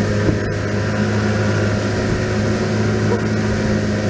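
An engine running steadily: a constant low drone with an unchanging pitch.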